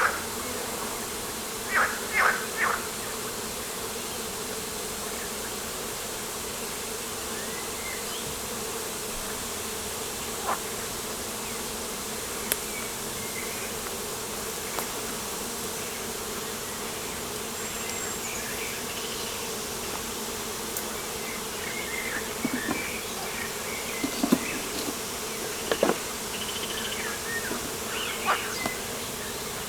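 Steady buzzing hum of insects such as bees or flies. Short bird chirps come and go in the second half, and a few sharp clicks are scattered through.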